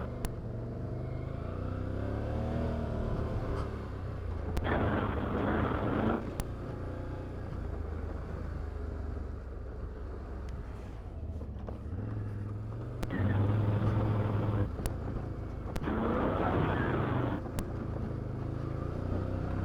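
Can-Am Outlander 850 XT's 850 cc V-twin engine running at trail speed, its note rising and falling with the throttle and swelling louder a few times, with a few sharp clicks over it.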